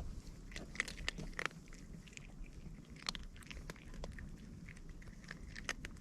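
A cat chewing dry cat food: irregular crunching clicks.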